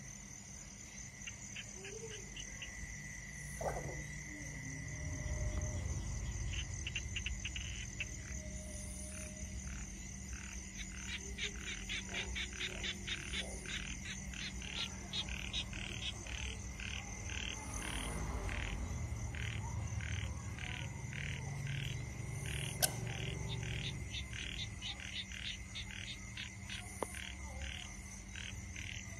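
Frogs calling: a long run of short repeated croaks, about two a second, that starts about six seconds in, over a steady high-pitched tone.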